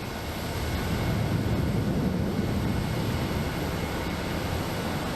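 Jet airliner engines heard from the ground at an airport: a steady deep rumble.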